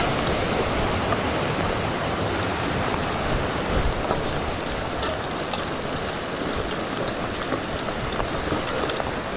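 Steady rush of runoff water flowing down a rain-swollen canyon creek, mixed with falling rain, with faint scattered ticks.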